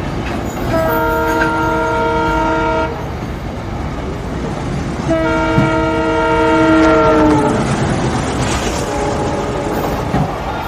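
A freight train of enclosed car-carrier wagons rolling past a level crossing with a steady rumble and wheel clatter. Over it a train horn sounds two long blasts, the second dipping slightly in pitch as it fades out.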